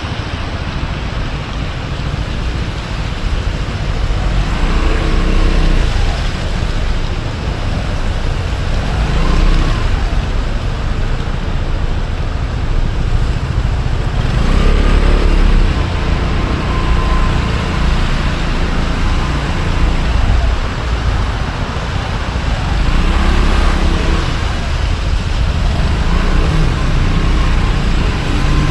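Piaggio MP3 300 three-wheeled scooter under way: a steady rush of wind over the microphone, with the engine note rising in pitch as it speeds up several times.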